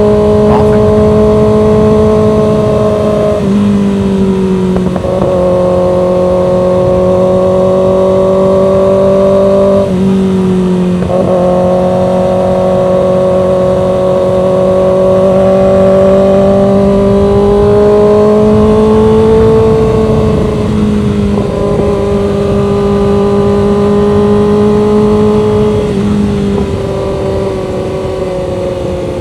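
Motorcycle engine running steadily while riding at low speed, its note holding level and shifting down or up in pitch a few times.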